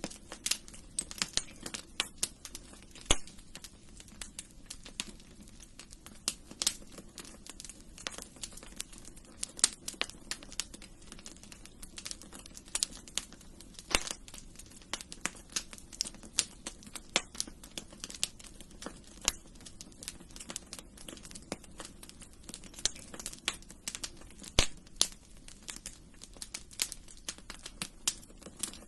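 Wood fire crackling in a fireplace: many irregular sharp pops and snaps over a steady low hiss of burning logs, with a few louder pops now and then.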